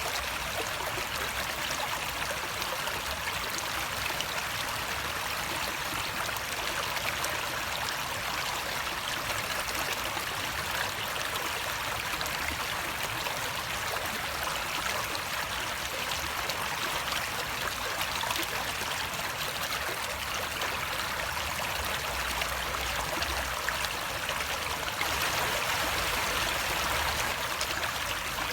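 Stream water flowing steadily, a continuous rushing and trickling that grows slightly louder near the end.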